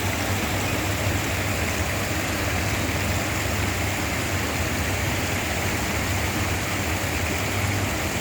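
Steady rush of running water feeding the duck pond, with a low hum underneath.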